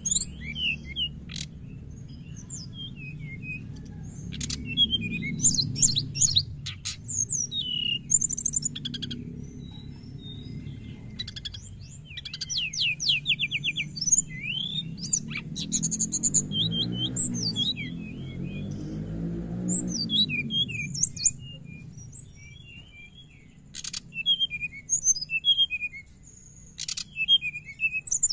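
Brown-chested jungle flycatcher chattering busily, with quick chirps, trills and fast ticking runs that come in bursts, over a low background hum that swells and fades in the middle.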